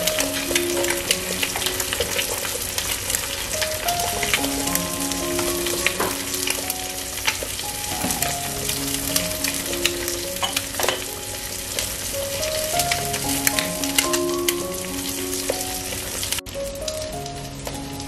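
Egg and mortadella frying in a stainless steel frying pan: a steady sizzle with many small crackling pops, over soft background music with a simple melody. About a second and a half before the end the sizzle suddenly cuts off, leaving mostly the music.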